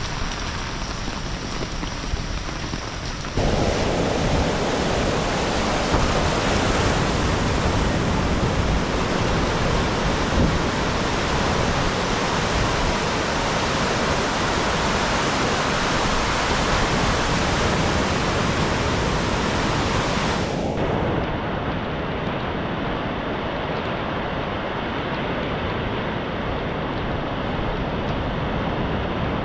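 Steady rushing noise of rain and sea surf recorded on a GoPro microphone. The sound changes abruptly twice: it becomes louder and fuller about three and a half seconds in, and turns duller near the 21-second mark.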